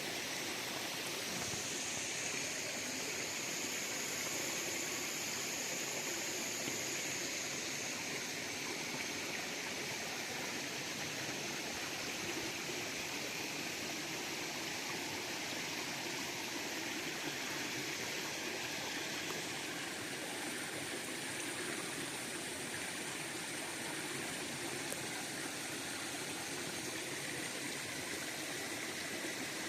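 River water flowing steadily, an even rushing hiss of current with no pauses or changes.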